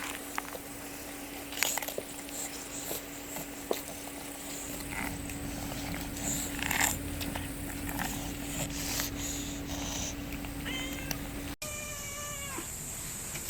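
Cats squabbling, a Siamese kitten and an angered black cat: short hissing bursts and scuffling through the clip, then a brief cat cry just after a cut near the end.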